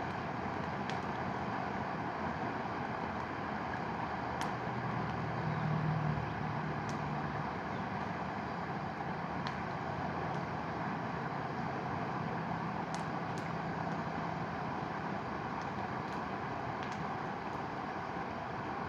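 Mountain river rushing steadily, with sparse sharp pops and cracks from a campfire burning beside it. A low drone swells about five seconds in and fades out before the end.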